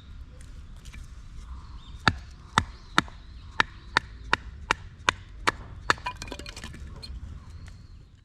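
About nine sharp, loud chopping strikes on wood, roughly two a second, followed by a few lighter clicks.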